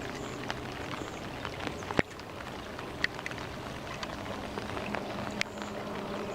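Rain falling steadily, with scattered sharp drop-like ticks and one louder knock about two seconds in.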